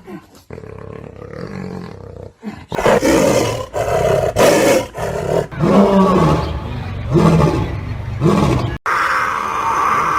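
A large animal making a series of short, harsh, growling calls about one a second, stopping abruptly near the end.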